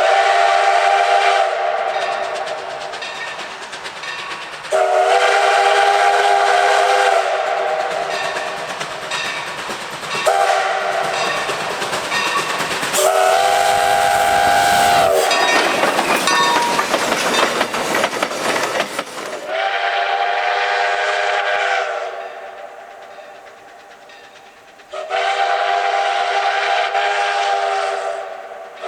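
Steam locomotive's five-chime whistle sounding a series of long blasts of a chord of several pitches, about six in all. In the middle, for about four seconds, the whistle gives way to the loud rushing clatter of the train passing close by.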